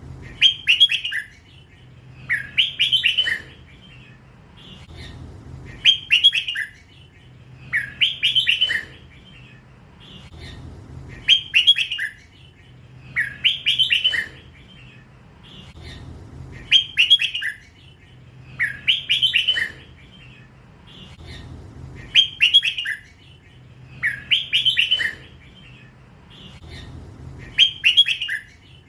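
Red-whiskered bulbul, a young crossbred bird still in its first plumage, singing the same short phrase over and over, about one every two and a half seconds. Each phrase is a quick run of clear whistled notes in the drawn-out 'lak wai' style prized by Thai song-bird keepers.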